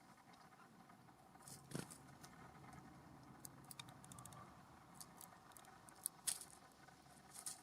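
Near silence with faint, scattered clicks and taps of birds pecking and hopping at seed on a ground feeder, the clearest tap about two seconds in and another about six seconds in.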